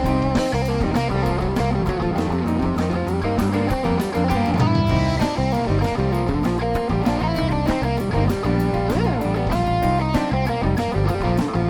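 Live rock band playing an instrumental passage, electric guitar to the fore over bass and a steady beat.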